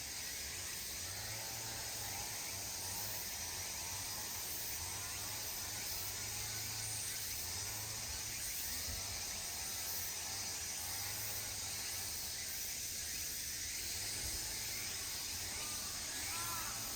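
Outdoor park ambience: a steady high hiss, with faint chirping calls repeated in small groups and a low hum that comes and goes.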